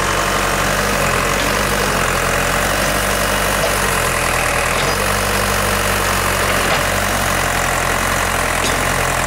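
Backhoe's diesel engine running steadily at a constant low speed, without revving.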